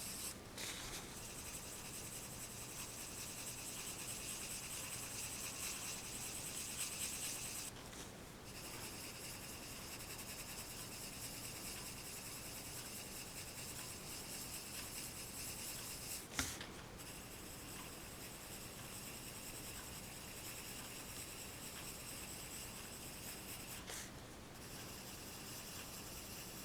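Pencil scratching across paper in steady sketching strokes, pausing briefly now and then, with a single sharp tap about sixteen seconds in.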